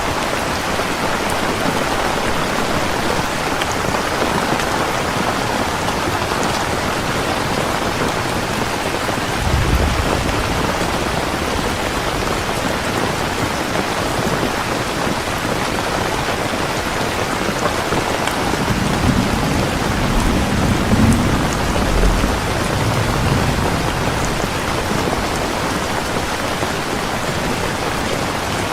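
Steady, even rain hiss, with low rumbles of thunder about a third of the way in and again for several seconds in the second half.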